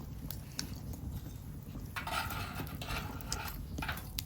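Scattered light clicks and knocks of utensils handling food, over a steady low rumble.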